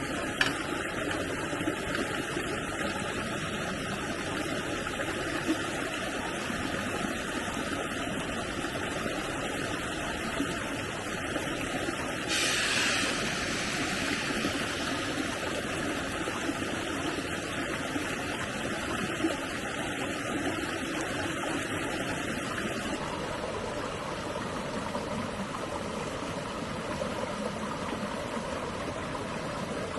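Stream water flowing in a steady rush, with a few small clicks. About twelve seconds in there is a louder hiss lasting about two seconds.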